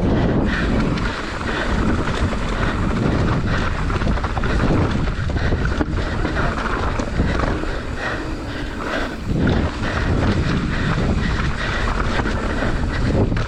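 Mountain bike riding fast down a trail: wind rushing over the camera microphone, with the rolling tyres and the rattle of the bike over rough ground.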